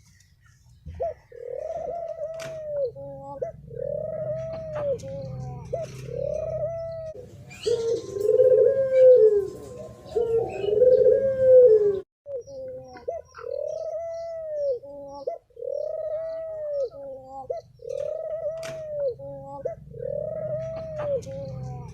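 Spotted doves cooing in the 'thổ' style: a steady run of arched coos about once a second over a low hum, with a louder, lower stretch of overlapping coos in the middle that breaks off abruptly about twelve seconds in before the series resumes.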